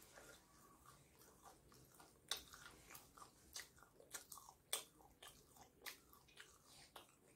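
Close-up chewing of a mouthful of fried chicken, with wet mouth sounds and a run of small crunches from the crispy coating. Two sharper crunches stand out, one about two seconds in and one near the middle.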